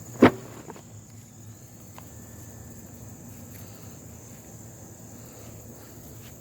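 Crickets chirping steadily, with one sharp knock about a quarter second in and a couple of faint clicks after it.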